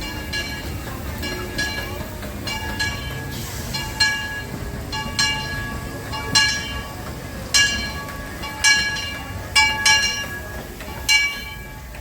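Steam locomotive's bell ringing steadily, about one stroke a second, each stroke ringing on, over the low running rumble of the train.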